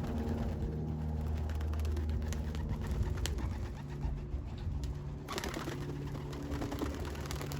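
Racing pigeons cooing, several low coos overlapping throughout, with scattered light clicks.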